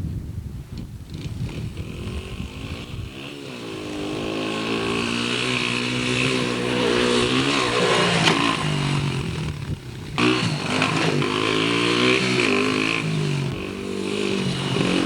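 Dirt bike engine running, a low rumble at first, then louder from about three seconds in, its pitch rising and falling again and again as the throttle is worked, with a short dip about ten seconds in.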